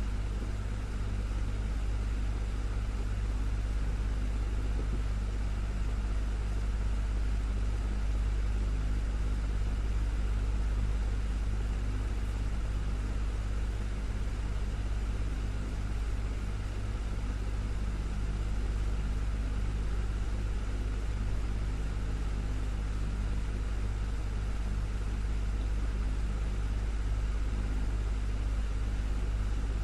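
Desktop fan running steadily: a constant low motor hum with an even rush of air over it.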